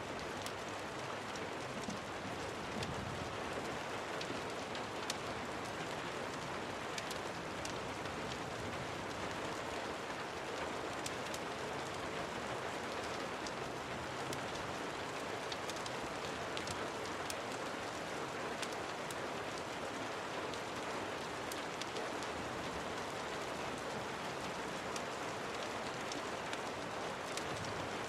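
Steady rain, with scattered small crackles from a wood fire mixed in.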